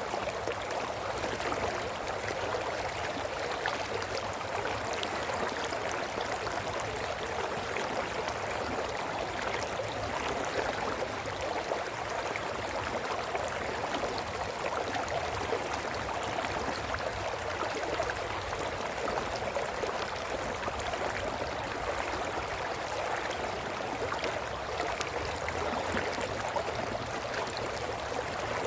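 A brook burbling and trickling over stones, a steady, even rush of flowing water.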